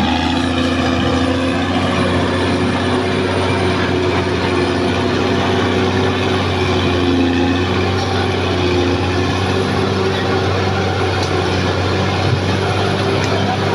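Caterpillar D6R XL bulldozer's diesel engine running steadily under work, with a faint high-pitched whine above it.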